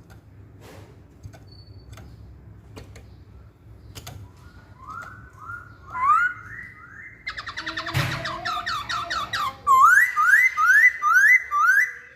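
Chinese hwamei (Poksay Hongkong) singing: after a few quiet seconds with faint clicks, it gives a series of rising whistled notes, breaks into a fast rapid-fire run, then repeats loud upslurred whistles about two a second.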